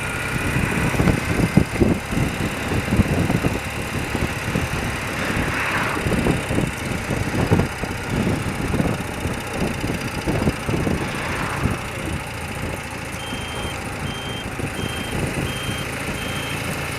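Old BMW motorcycle running on the move, with wind buffeting the microphone in irregular low gusts. About thirteen seconds in, the indicator's add-on bleeper starts: a short high beep repeating about one and a half times a second.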